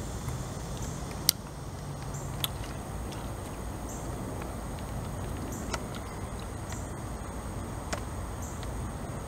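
Eating sounds: a person chewing food, with a few sharp mouth clicks, the loudest about a second in, over a steady outdoor background hum with faint short high chirps recurring every second or two.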